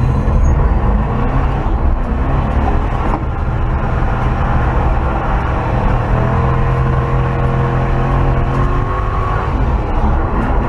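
1968 Chevrolet C20 pickup's engine, fitted with a new intake and an Edelbrock carburetor, running steadily under way, heard from inside the cab along with a steady rush of tyre and road noise.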